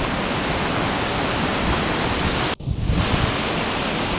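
Strong, gusty trade wind rushing through rainforest trees and buffeting the microphone: a steady rushing with uneven low rumbles. The sound cuts out for an instant about two and a half seconds in.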